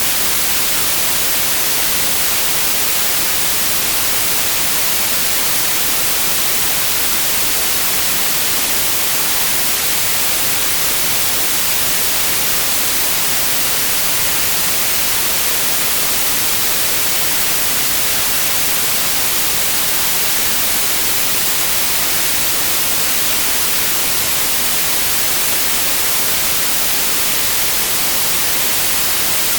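Synthetic white noise: a steady, even hiss across the whole range, brightest in the highs, with no change.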